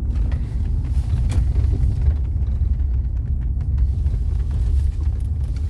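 Mercedes-Benz W126 500 SE's V8 engine running with a steady low rumble.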